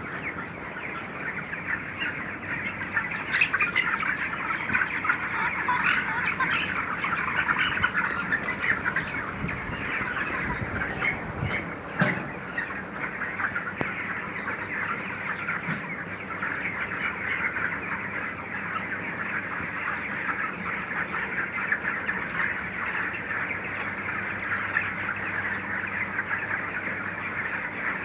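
A flock of chickens calling together: a dense, steady chatter of many overlapping short calls, with one short knock about twelve seconds in.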